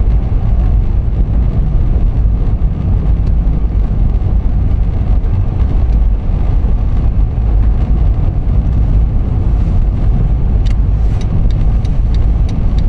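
Steady low rumble of a car driving, with a run of light clicks near the end.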